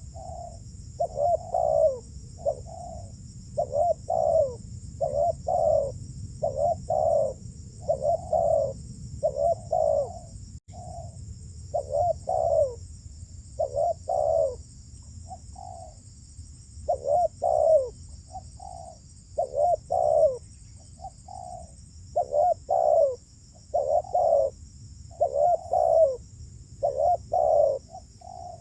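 Spotted doves (terkukur) cooing continually, a rhythmic run of short, low, mellow coos repeated in phrases every second or two, with a steady faint high hiss underneath.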